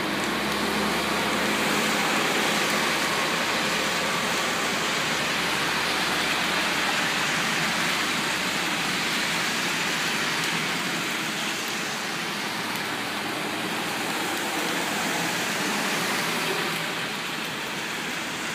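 Steady hiss of rain and of cars driving through standing water on a flooded road, with a low rumble that drops away about eleven seconds in.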